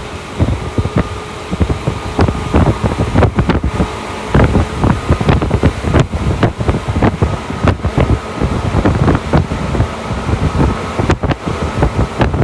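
Running sound of a Tokyu Toyoko Line electric commuter train: the wheels rattle and clack over rail joints and points in a dense, irregular run of knocks. A steady hum from the traction motors runs underneath.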